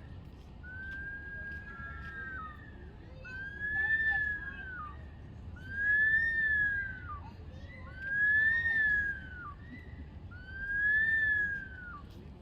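Bush stone-curlews wailing: a series of about six loud, siren-like whistles, each rising and then falling over about a second, repeated every two seconds or so, with two calls overlapping near the start.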